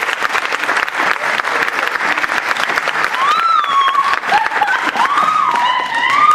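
Audience applauding, a dense steady clapping, with high rising-and-falling cheers from a few listeners joining in during the second half.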